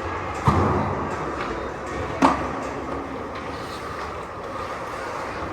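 Ice hockey rink ambience during youth play: a steady wash of skates, sticks and arena noise, with a thump about half a second in and a sharp knock of puck or stick a little over two seconds in.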